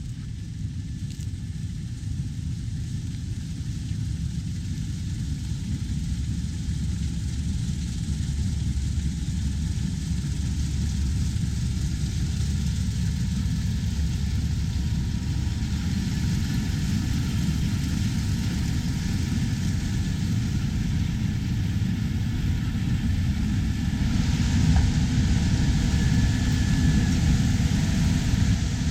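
Heavy harvest machinery, a combine or tractor, running steadily with a low rumble that grows gradually louder, and a hiss joining in near the end.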